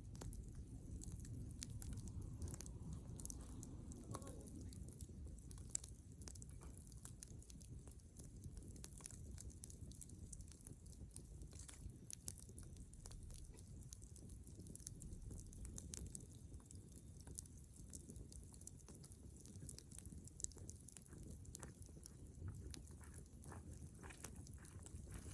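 Bonfire of dry dead wood burning, crackling with scattered sharp snaps and pops over a low steady rumble of the flames.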